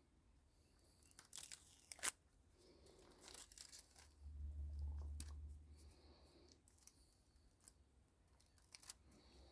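Faint, scattered tearing and crunching with a few sharp clicks: hand work stripping the paper-and-glue-wrapped copper windings of a microwave oven transformer. A dull low rumble comes in the middle.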